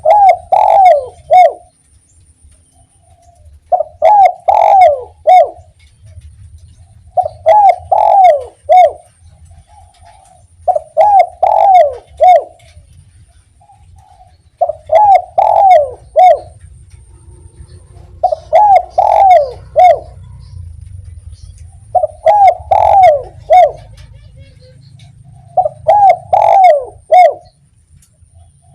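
Spotted dove (derkuku) cooing its 'kuk 1' song: a loud phrase of about four falling coos, repeated eight times, one every three to four seconds.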